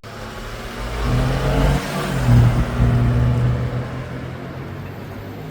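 A car driving past under acceleration. Its engine note builds, is loudest about two to three seconds in with a slight drop in pitch, then fades away.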